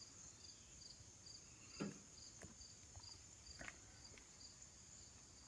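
Near silence with crickets chirping: an even, high pulsing chirp a little over twice a second over a steady high trill, with a few faint clicks.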